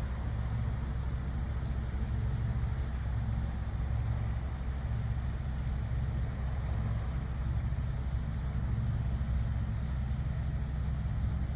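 A van's engine idling with a steady low rumble.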